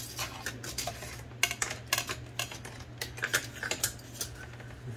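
Small metal parts of an Olivetti Linea 98 typewriter carriage clicking and clinking as they are handled and pressed into place, in an irregular run of sharp ticks over a steady low hum.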